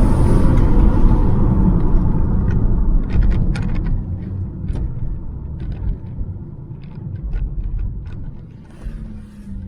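Car engine rumble, loud at first and fading away over several seconds, with scattered light clicks in the second half.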